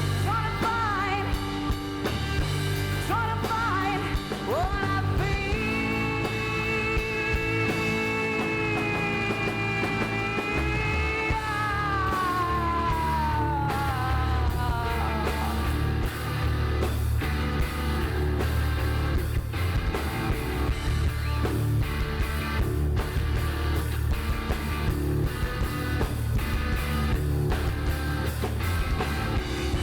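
Rock band playing, with drums, bass and guitar. A long note is held from about five seconds in, then slides down in pitch before the band plays on.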